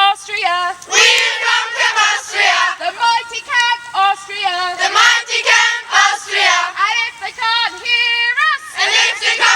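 Group of children singing a song together.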